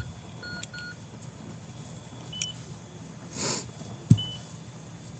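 Cash machine keypad beeping as buttons are pressed: three short beeps in the first second, then single beeps about two and a half and four seconds in. A brief hiss and a soft thump come just before the last beep.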